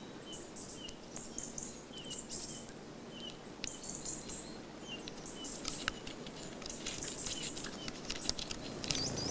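Woodland birdsong: several small birds chirping and twittering at a high pitch, one giving a short note repeated every second or so, with scattered faint clicks.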